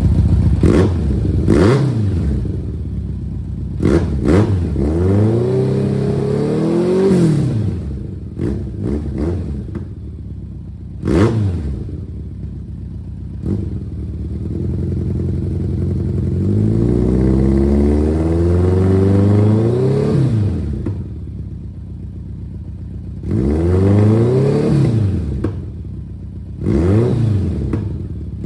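1991 BMW K1's four-cylinder engine, through its new full exhaust system, revved again and again while stationary: about five blips climbing in pitch and dropping back to idle, the longest near the middle. A few sharp cracks come between the revs.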